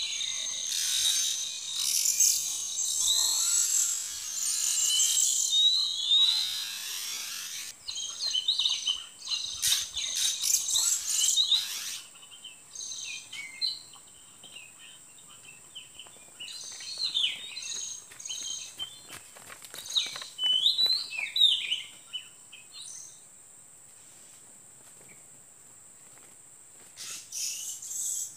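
Oriental magpie-robin singing: varied whistled phrases with notes that glide up and down, in bursts with pauses between them. A buzzing insect chorus is loudest in the first quarter, and a thin steady high insect whine runs through the middle.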